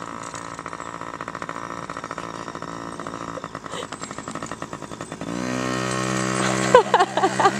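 Yamaha PW50's small two-stroke single-cylinder engine running steadily. About five seconds in it revs up, rising in pitch and getting louder, and holds the higher note.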